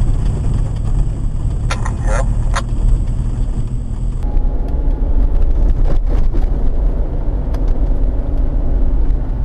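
Vehicle driving, heard from inside the cab: a steady, loud low rumble of engine and tyre noise.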